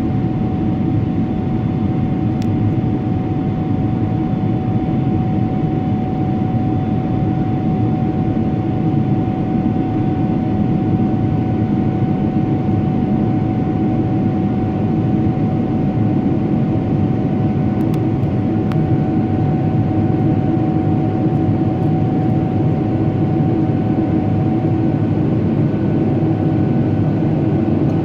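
Steady cabin noise of a Boeing 777-300ER: an even low rumble of engines and airflow with a thin steady tone above it, holding level with no change.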